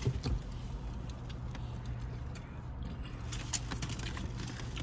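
Eating and food-handling noises, a scatter of sharp clicks and crackles that cluster about three and a half seconds in, over a steady low hum.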